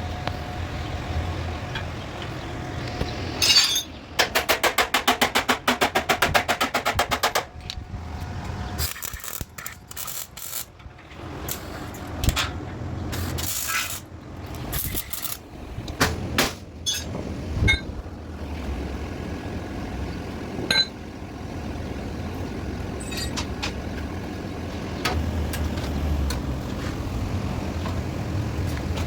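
Metal being worked on a car chassis: clinks and knocks, with a run of rapid, evenly spaced sharp strikes about four seconds in that lasts a few seconds. A steadier low hum comes in near the end.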